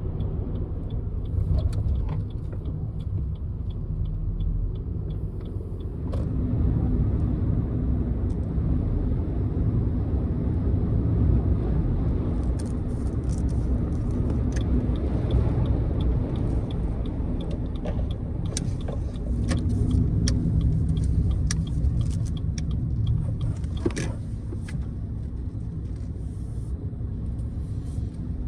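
Car cabin noise while driving: a steady low road and engine rumble, with a faint regular ticking for the first few seconds.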